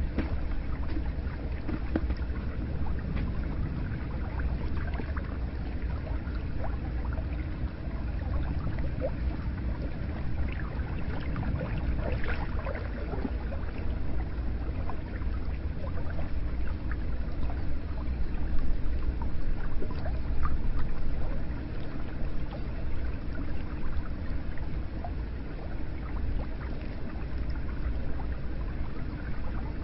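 Hot spring water pouring steadily into a bath, a constant rushing flow with scattered small drips and splashes.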